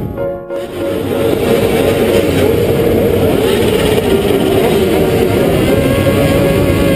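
Several motorcycle engines running and revving, their pitches rising and falling across one another, after a brief drop in sound about half a second in.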